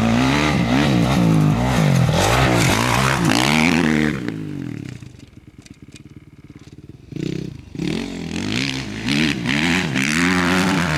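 Honda CRF450 dirt bike's four-stroke single-cylinder engine revving up and down repeatedly, falling back to a low rumble about five seconds in, then revving up and down again from about eight seconds.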